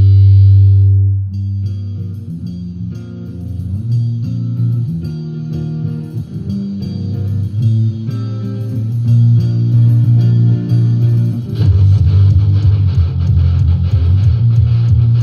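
Rock song: a picked electric guitar line over bass guitar. It follows a held chord that stops about a second in, and the full band comes in louder about twelve seconds in.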